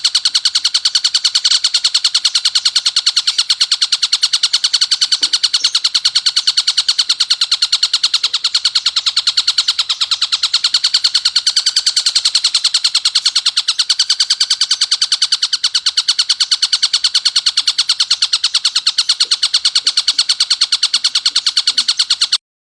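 Tengkek buto kingfisher call: a long, unbroken, harsh rapid rattling chatter, high-pitched, that cuts off suddenly near the end. It is used as a coarse masteran tutor call for songbirds.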